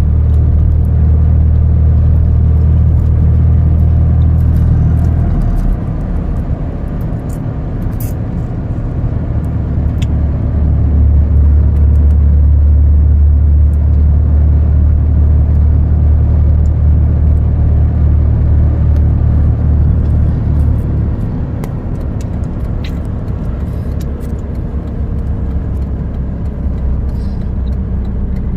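Low rumble of a truck's engine and road noise heard from inside the cab while driving, swelling louder for the first five seconds and again from about eleven to twenty-one seconds in.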